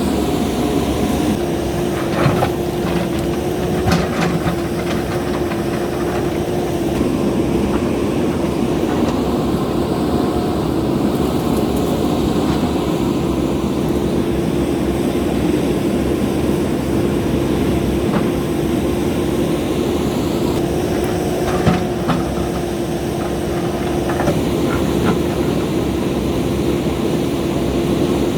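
JCB backhoe loader's diesel engine running steadily at work, with a few sharp knocks from the machine here and there.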